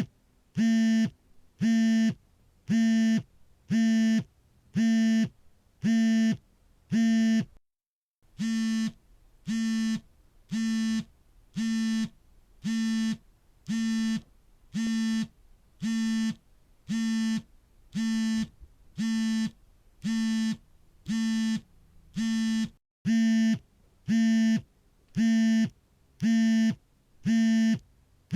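A smartphone's vibration motor buzzing for an incoming call, in short even pulses of about three buzzes every two seconds. The pattern stops briefly twice and picks up again, a little quieter in the middle stretch.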